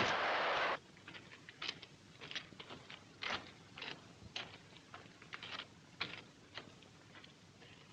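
Running noise of the steam-hauled postal train, cutting off suddenly less than a second in. Faint, irregular clicks and knocks follow, several a second at uneven spacing.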